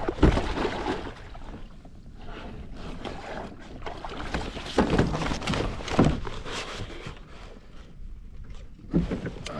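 Irregular splashing and knocks against a plastic sit-on-top kayak, with a few sharp bangs, as a hooked tope shark is hauled from the water onto the kayak.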